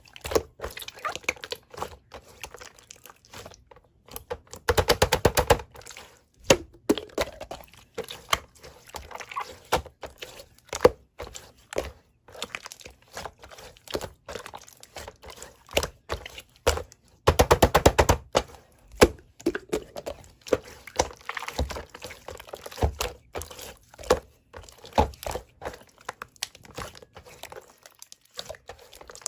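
Slime being squeezed and worked by hand, giving sticky clicks, pops and crackles, with two dense runs of rapid clicking about five and eighteen seconds in.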